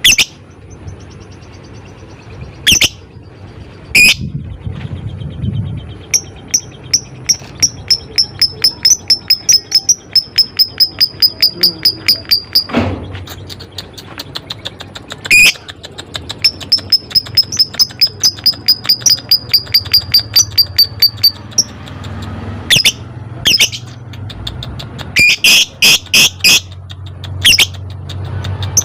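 Lovebirds calling: sharp, shrill single calls, and two long runs of rapid high ticking chatter at about five ticks a second, the 'ngetik' call, played as a lure to set other lovebirds calling.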